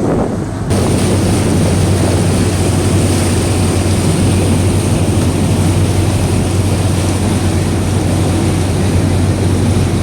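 Water shuttle boat's engine running under way: a loud, steady, deep drone mixed with rushing wind and water noise. It gets suddenly louder under a second in, then holds steady.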